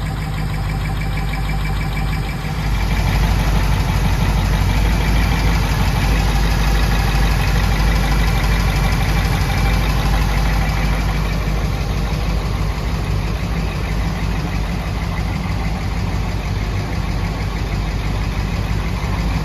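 1939 Ford sedan engine running steadily through a new true-dual exhaust with 2-inch glass-pack mufflers, freshly started in the car on jump boxes. It gets louder about two and a half seconds in and stays loud.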